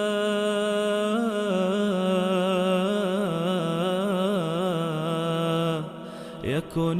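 A man's voice singing an Islamic nasheed: a long held note that breaks into a wavering, ornamented melody on a single word. The singing dips briefly near the end, with a quick slide in pitch, before going on.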